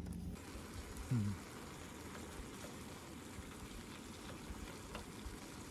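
Faint steady hiss of outdoor background noise, with a brief low voice-like sound about a second in and a few faint ticks.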